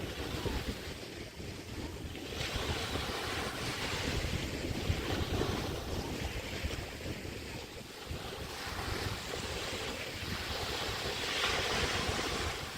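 Bay waves washing onto a beach, with wind rumbling on the microphone. The hiss of the wash swells about two and a half seconds in and again near the end.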